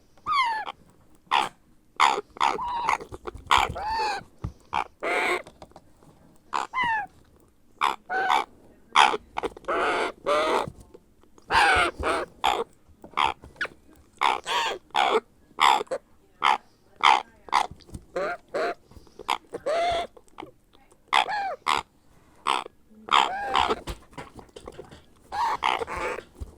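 Grey parrot chick giving a long series of short, raspy calls, about one or two a second with brief pauses: the food-begging calls of a hand-fed hatchling.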